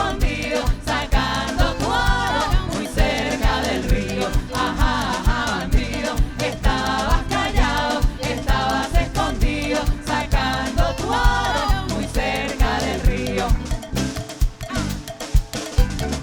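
Live band music: voices sing a melody over a steady percussion rhythm. The singing drops out about fourteen seconds in, leaving the percussion and band playing on.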